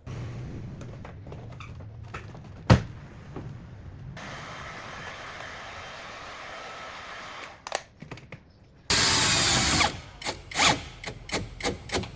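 Workshop power-tool sounds. There is a sharp knock about three seconds in and a steady hiss for a few seconds. Then a power tool, likely a drill, runs loudly for about a second and is pulsed in several short bursts near the end.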